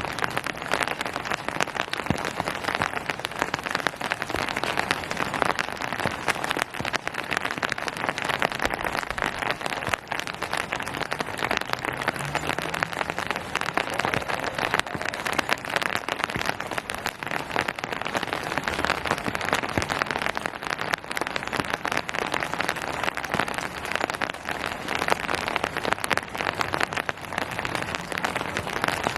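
Steady rain falling, a dense, even patter of drops that stays the same throughout.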